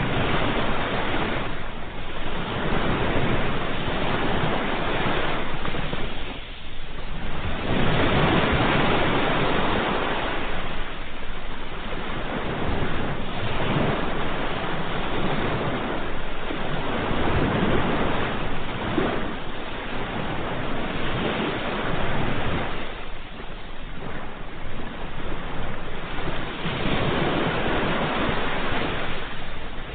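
Ocean waves breaking and washing on a shore, a continuous surf noise that swells and ebbs every few seconds.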